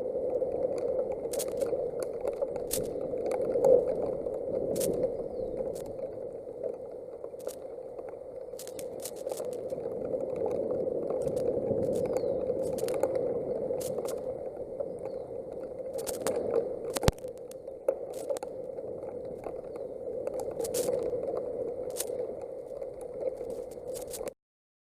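Thunderstorm wind and heavy rain on an outdoor nest-camera microphone: a steady rush with sharp crackling clicks scattered throughout. It cuts off suddenly near the end.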